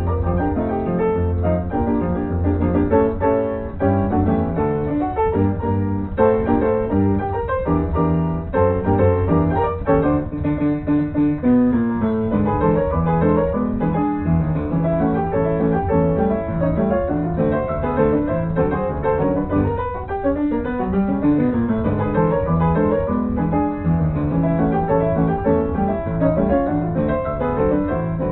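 Background piano music, a steady run of notes with no break.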